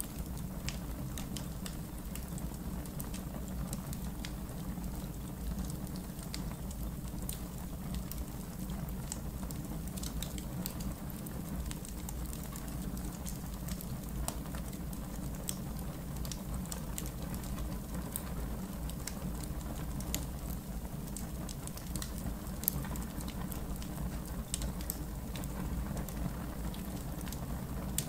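Wood fire burning in an outdoor fire pit, crackling with irregular sharp pops and snaps over a steady low rumble. One pop about 23 seconds in is louder than the rest.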